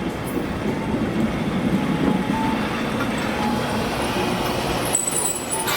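Toyama Chiho Railway city tram running on street track, its wheels rumbling steadily on the rails, with a thin high wheel squeal coming in near the end.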